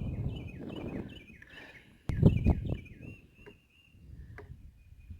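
A bird calling over and over in short, high chirps, with low rustling in the first second or so and a sharp knock about two seconds in.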